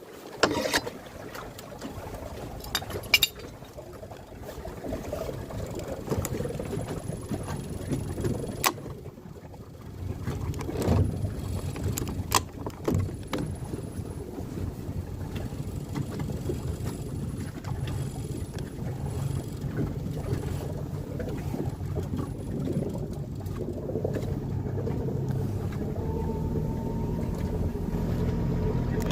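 A tender boat's engine runs steadily with a low rumble, firming into a steadier hum near the end. Scattered sharp knocks and thumps sound throughout.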